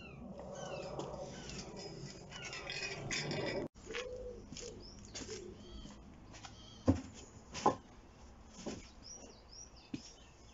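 Small birds chirping in repeated short, falling high notes, with two sharp knocks a little under a second apart about seven seconds in.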